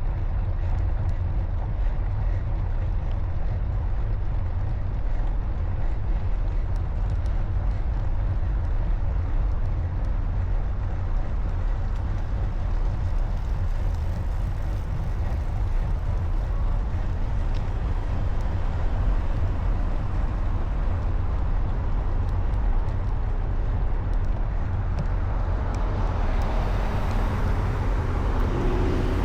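Steady low rumble of wind and road noise picked up by a camera on a moving bicycle, with traffic around it. The noise swells near the end, as of a vehicle passing close by.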